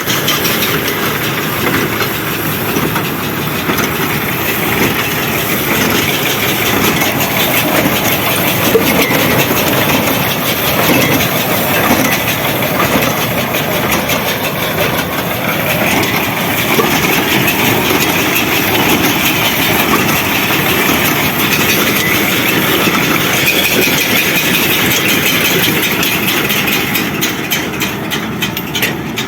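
Farm tractor running steadily with field machinery clattering and rattling along with it.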